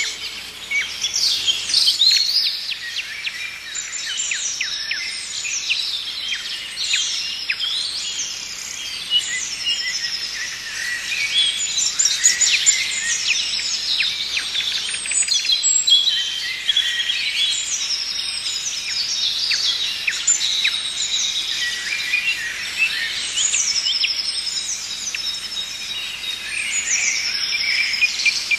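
Several birds singing and calling at once: a dense, continuous chorus of quick chirps and short falling whistles.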